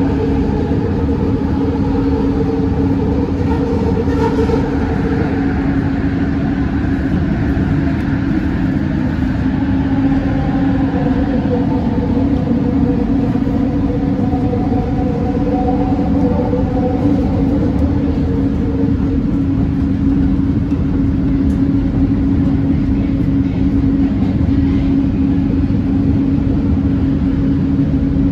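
Bombardier Innovia ART 200 linear-motor train running, heard from onboard: a loud, steady rumble with a constant hum and motor whines that slide in pitch during the first two-thirds, then settle.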